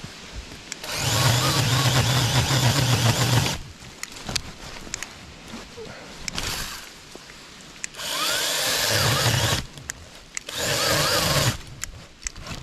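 Saker 20-volt battery mini chainsaw running in three bursts as it cuts into a tree limb: one of about three seconds, then two shorter ones about five and seven seconds later. The stop-start cutting fits the chain being pinched by the pressure of the limb.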